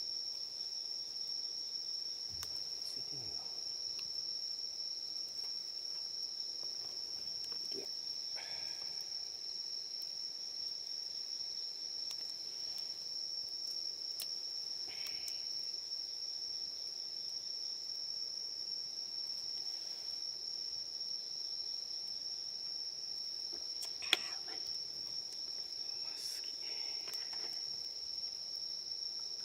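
Insects chirring in one steady, high-pitched tone, with a single sharp click about twenty-four seconds in.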